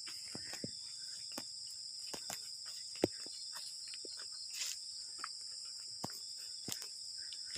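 Steady, high-pitched chorus of night insects such as crickets, with scattered sharp clicks through it, the loudest about three seconds in.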